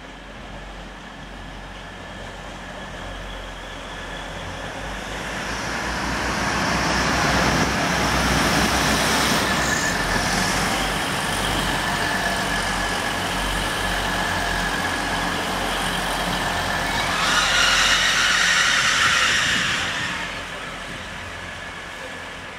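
Grand Central Class 180 diesel multiple unit arriving: engine and wheel noise growing louder from about six seconds in as it runs past. A louder high-pitched squeal for a few seconds near the end, then the noise fades.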